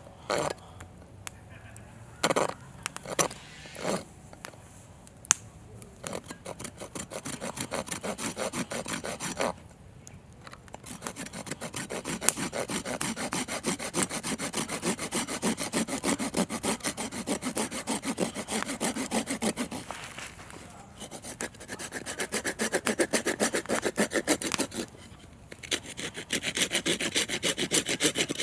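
Hand saw cutting through firewood in fast back-and-forth strokes, in several runs with short pauses between them. A few separate wooden knocks come in the first few seconds, before the sawing starts.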